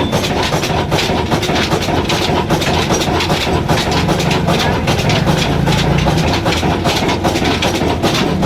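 Old Ruston diesel engine running steadily, its exhaust beating in a fast, even rhythm over a low hum.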